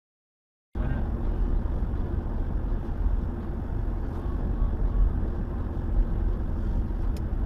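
Silence for a moment, then the steady low rumble of a car driving, picked up by a dashcam: engine and road noise.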